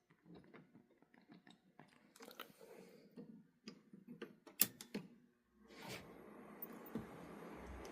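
Clicks and light knocks of model-railway handling on the layout, then, about five and a half seconds in, a steady whirring hum starts: a small electric HO model train running on powered track.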